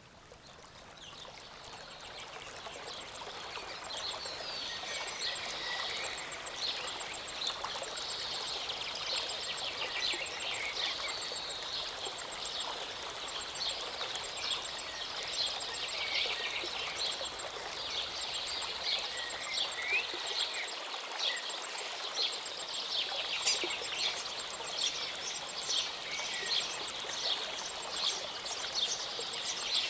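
Many small birds chirping and trilling over the steady rush of a small mountain stream or waterfall. It fades in over the first few seconds.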